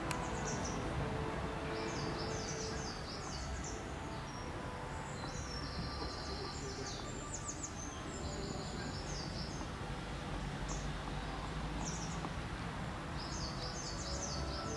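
Small birds chirping and singing in short high phrases again and again, over a steady low outdoor rumble.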